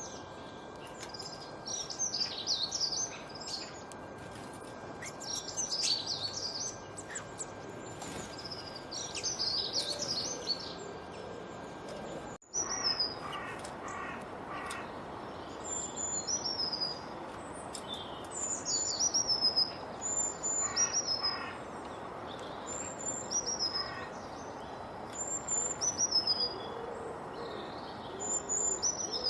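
Songbirds singing over a steady background hiss: bursts of fast, high warbling phrases every few seconds. After a sudden cut about halfway, a bird repeats short, high, down-slurred whistles every second or two, with quieter rapid notes from another bird.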